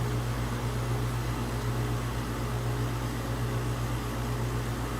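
Outdoor air-conditioning unit running with a steady low hum.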